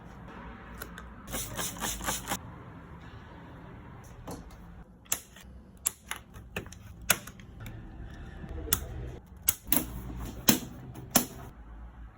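Sharp clicks and taps of hard objects being handled: a quick rattling run of them a little over a second in, then single clicks every second or so.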